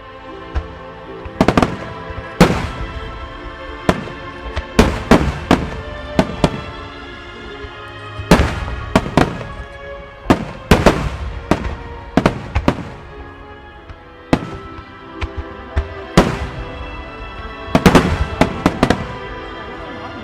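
Aerial fireworks shells bursting in a rapid, irregular series of loud booms and crackles, some in quick clusters, over music playing throughout.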